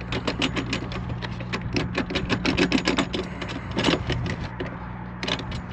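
A rapid series of small sharp clicks from parts being fitted and screwed together by hand, over a steady low hum.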